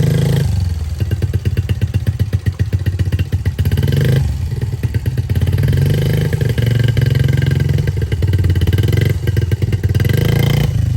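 A small motorbike's engine running under throttle as it pulls away with a child aboard, the revs rising and sinking: they drop about half a second in, again near four seconds and near nine seconds, and climb back in between.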